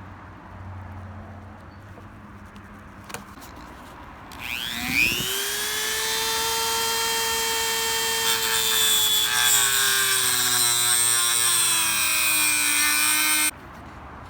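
High-speed rotary tool, likely a Dremel, spinning up to a steady high whine, then sagging slowly in pitch as it bears into the work. It stops abruptly near the end.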